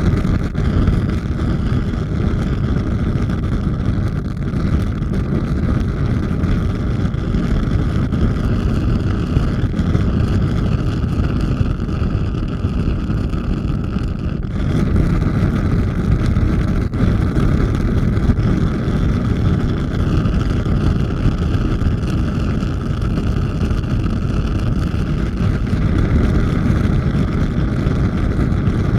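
A large fire burning with a steady, loud roar, strongest in the low end.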